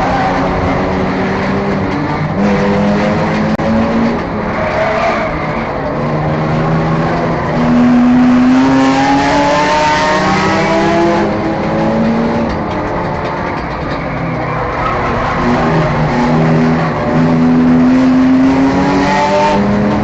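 Enduro race car engine running hard under racing, its pitch climbing and falling again and again as the car speeds up and lets off, with a long climb about eight seconds in.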